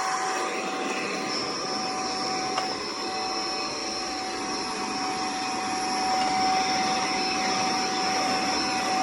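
Tineco Pure ONE S15 cordless stick vacuum running steadily, a constant whine over the rush of suction.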